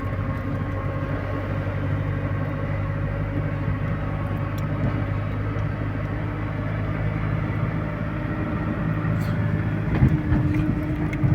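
GAZelle light truck's engine running at a steady speed, heard from inside the cab with road noise while driving. There is a short knock about ten seconds in.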